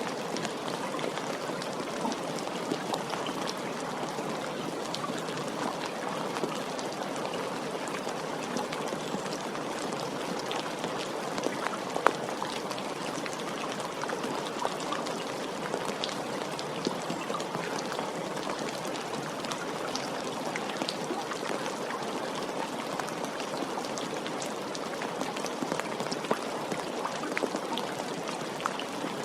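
Steady rain falling, an even hiss with many small drop ticks scattered through it and one sharper drop about twelve seconds in.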